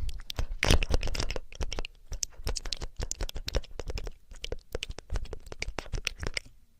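ASMR ear-cleaning sounds close to the microphone: rapid, irregular scratching and crackling clicks that stop shortly before the end.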